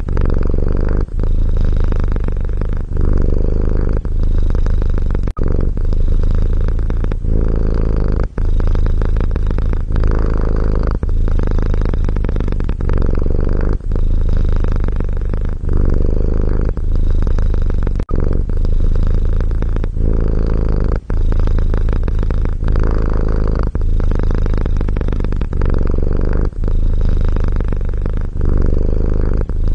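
Domestic cat purring loudly, a steady low rumble that breaks briefly at each breath, about every one and a half seconds.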